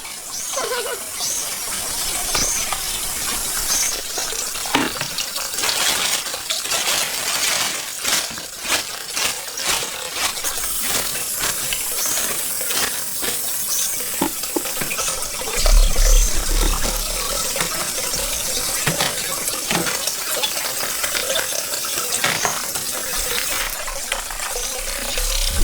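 Pond water splashing and sloshing as hands work through it, with many small sharp clicks and knocks scattered throughout. A low rumble joins a little past the middle.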